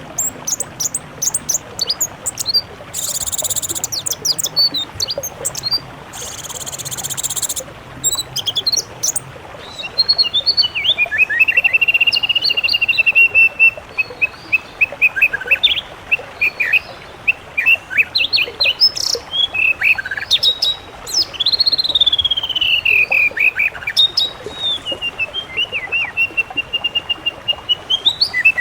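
Songbirds singing: quick high chirps and two buzzy rattles in the first third, then long, warbling whistled trills that glide up and down until the end.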